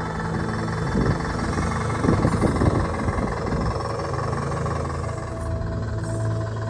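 Scale Land Rover Defender RC crawler driving over rocks: a steady low drive drone, with a rougher, louder burst about two to three seconds in.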